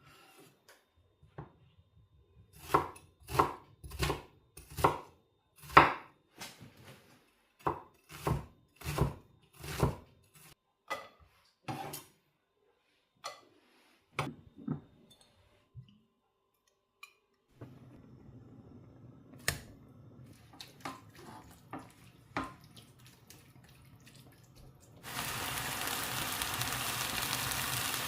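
Knife chopping on a cutting board, about two strokes a second for roughly twelve seconds, followed by a few scattered knocks and clicks of kitchenware. Near the end, food goes into a hot pan and fries with a steady sizzle.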